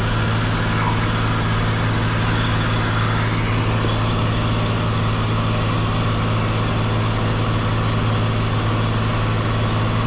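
Cessna 182 Skylane's piston engine and propeller droning steadily in flight, heard inside the cabin.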